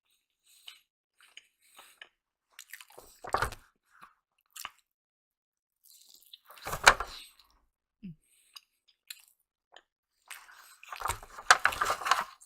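Close-up eating sounds: chewing with a few sharper bites or knocks, in scattered short bursts, busiest near the end.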